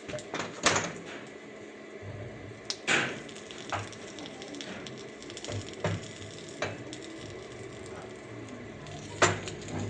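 Scattered sharp knocks and clinks, about six in ten seconds, over a steady low hum: metal parts and tools being handled and set down.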